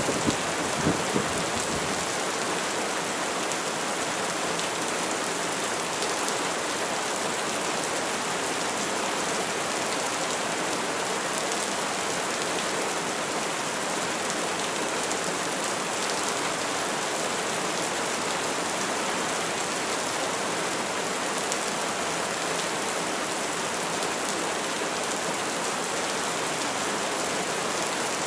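Steady rain falling, an even hiss throughout. The tail of a thunder rumble dies away in the first couple of seconds.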